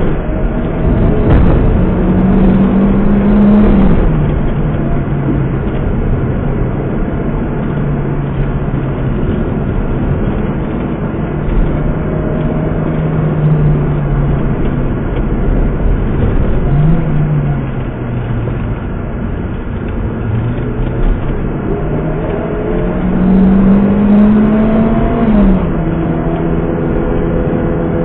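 Honda Civic Type R's engine heard from inside the cabin, cruising at steady revs that climb a few times under acceleration and drop back sharply at each gear change.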